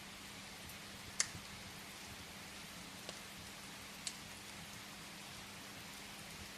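Steady rain hissing against a window, with a few sharp crackles from burning firewood, the loudest about a second in and two smaller ones a few seconds later.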